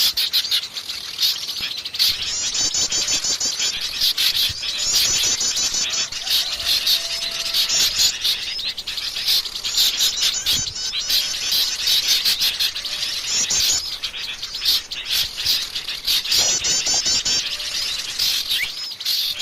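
A dense chorus of many small songbirds chirping and twittering at once, high-pitched, with fast trills coming back every couple of seconds. It is a bird-lure recording of busy birds, played to draw wild birds in.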